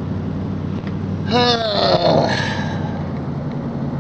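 Gehl 4400 skid steer engine running at a steady, even pitch.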